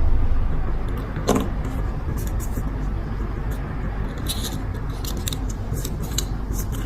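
Small metal parts of a petrol lighter being handled: a knock about a second in, then a run of light, irregular clicks and taps, over a steady low background hum.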